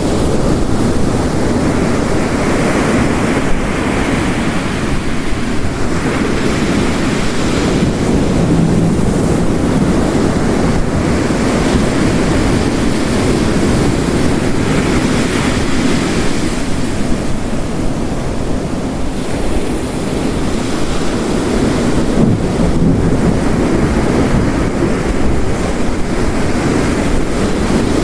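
Heavy rain mixed with ocean waves crashing on a coast, a dense steady wash that swells and eases every few seconds.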